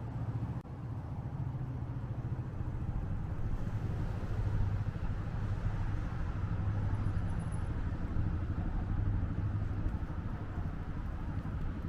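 Street traffic: a motor vehicle engine running close by, a steady low hum over road noise.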